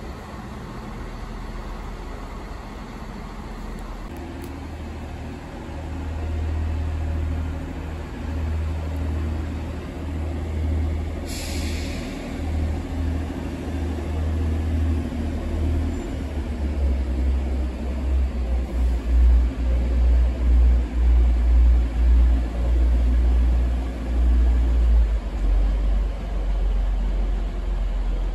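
Train rumble at a station platform, building from about four seconds in. A short air hiss comes a little before halfway, and an uneven, pulsing low rumble is loudest in the second half.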